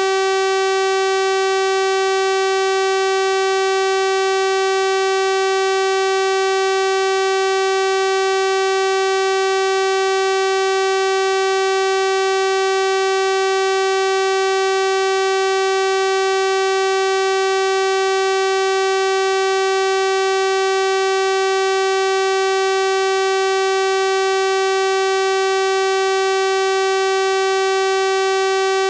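Steady electronic sawtooth-wave tone at 384 Hz, held at one pitch and level throughout, with a bright, buzzy edge from its many harmonics.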